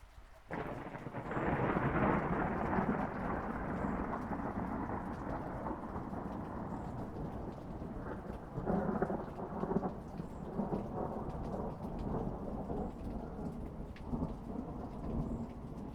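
Thunder breaks suddenly about half a second in and rolls on as a long rumble that swells again several times, over steady rain.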